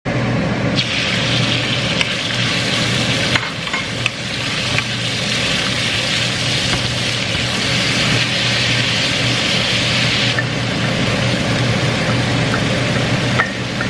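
Sliced beef sizzling in hot oil in a frying pan as it is stirred with a wooden spatula, with a few sharp knocks of the spatula against the pan in the first five seconds. The sizzle eases a little about ten seconds in, over a steady low hum.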